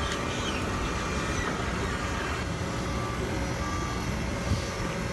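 Truck's reversing alarm giving slow, long beeps over the low rumble of its running engine as it backs up.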